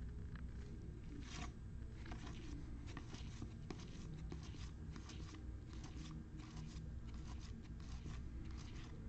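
Trading cards being handled: irregular light scrapes and flicks of card stock sliding against card, with a steady low hum underneath.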